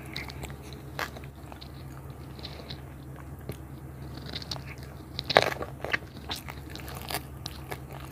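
Close-up eating sounds of someone chewing spicy minced tilapia salad with sticky rice and fresh leaves: wet mouth clicks and crunches, with the loudest crunch about five seconds in, over a low steady hum.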